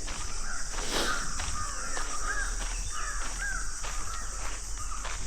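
A bird gives a run of short arched calls over a steady high insect drone. Footsteps on a forest path fall about twice a second, with one louder thump about a second in.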